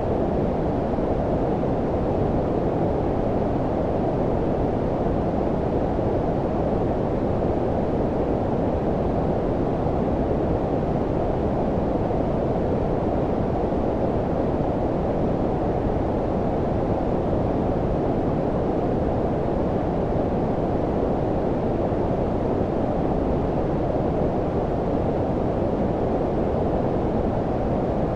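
Low-frequency white noise (brown-noise-like): a steady, deep rushing hiss with the high end rolled off, unchanging throughout.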